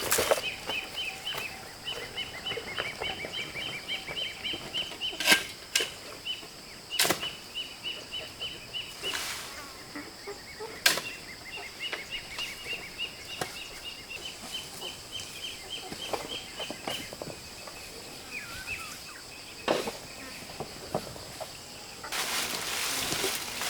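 Outdoor rural ambience: a steady high insect drone with rapid series of short, high chirps from small animals, broken by occasional sharp knocks. A rushing hiss comes in near the end.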